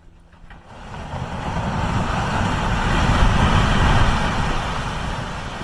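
Glacier ice collapsing into the water: a rumbling roar that builds over about two seconds, peaks, then slowly dies away.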